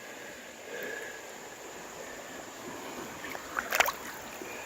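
Creek water running as a steady rushing hiss, with a short cluster of sharp clicks a little before the end.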